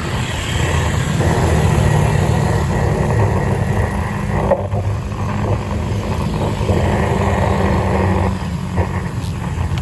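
Steady vehicle running noise with wind rush, heard while riding in road traffic.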